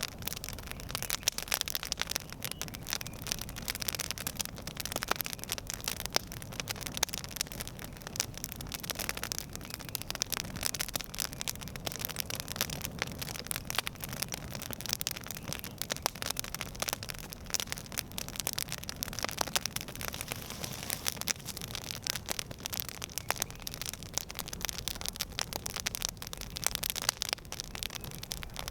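Campfire burning: dense, irregular crackling and popping over a steady hiss.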